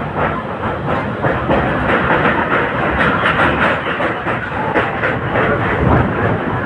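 Mumbai suburban local train running at speed, a steady loud rush with rapid clattering of wheels over the rail joints.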